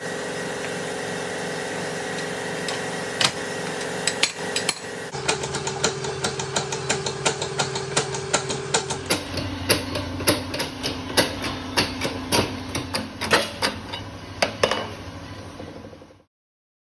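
Repeated hammer blows on metal, roughly two a second, over a steady machine hum, while a motorcycle connecting rod is being changed. The sound cuts off suddenly near the end.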